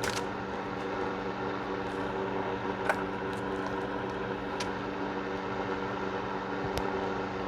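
Steady hum of a heater running, with a few light clicks and knocks of gun parts being handled.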